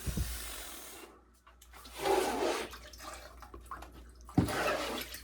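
Squeegee pushing standing water across a shower floor, in a few separate swishing strokes.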